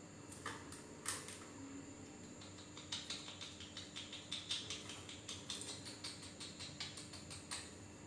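Quick series of short, quiet ticks from a caged pet starling (jalak), about three or four a second for several seconds, after two single louder ticks in the first second or so.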